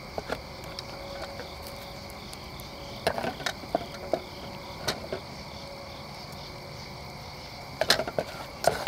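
Scattered clicks and taps of a utensil against a cooking pot while a flour-and-butter roux is worked, over a steady chorus of insects. The taps cluster about three seconds in and again near the end.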